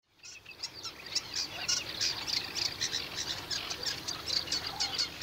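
Birds chirping: rapid, high, short chirps several times a second over a dense chorus, fading in at the start.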